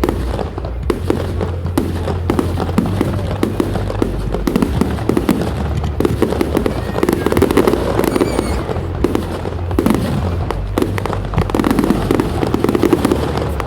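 Fireworks display going off: a dense, continuous run of bangs and crackles in rapid succession.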